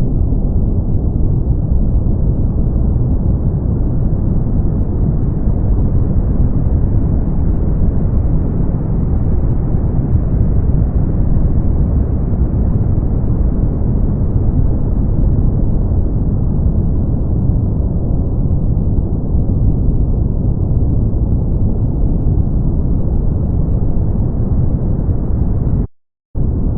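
Brown noise: a steady, deep, even hiss with most of its weight in the low pitches and little above the mid range. Near the end it cuts out to silence for a fraction of a second, then resumes.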